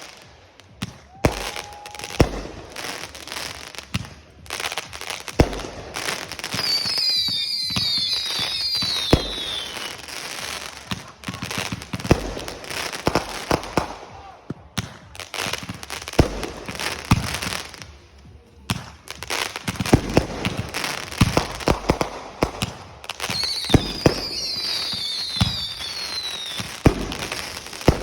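Fireworks going off, with many sharp bangs and crackling pops throughout. Twice, a cluster of whistles falls in pitch.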